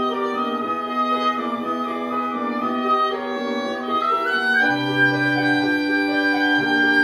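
Wind quintet playing held chords, with the top voice rising to a higher note about four seconds in as a new low note enters beneath.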